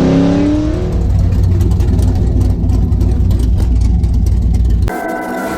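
Car engine at full throttle, its pitch rising for the first half second, then a loud, rough exhaust rumble with many sharp crackling pops. Music comes in near the end.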